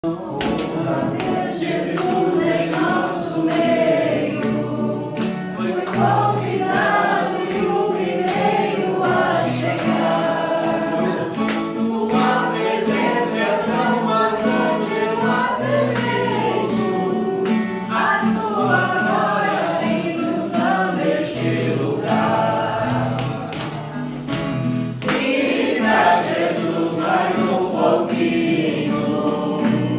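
A group of voices singing a Christian praise song together, with instrumental accompaniment carrying steady bass notes and sharp beats.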